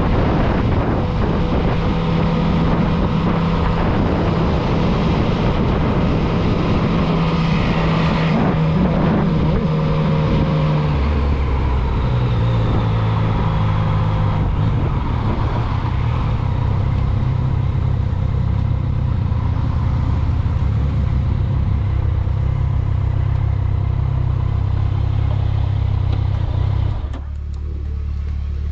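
Motorcycle engine running under way, steady at first, its tone dropping to a lower pitch about a third of the way in, then the level falls as the throttle eases near the end.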